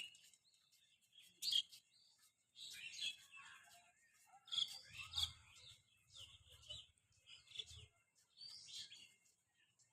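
Small birds chirping in short, scattered calls, with a low hum about five seconds in that lasts some three seconds.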